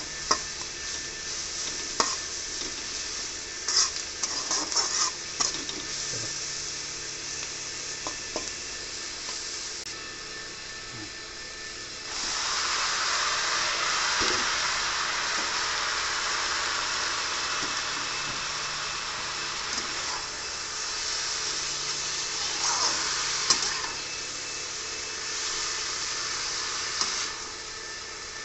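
Sliced onions sizzling in hot oil in an iron wok, with the clicks and scrapes of metal tongs stirring them against the pan. About twelve seconds in, raw pork pieces go into the hot oil and a much louder sizzle starts and carries on, easing a little in places as the meat is turned.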